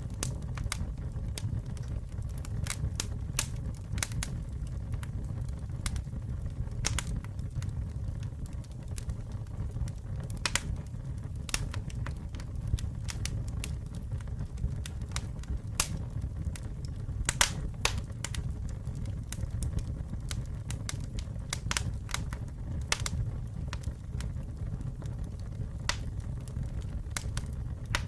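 Campfire burning: a steady low rumble with irregular sharp crackles and pops from the burning wood, several a second.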